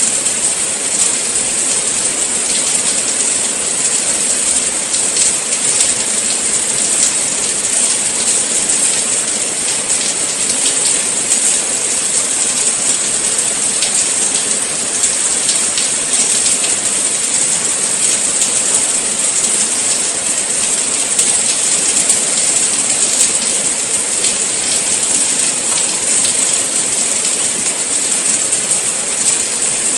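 Steady rain falling: an even, unbroken hiss thick with small drop ticks, with no let-up.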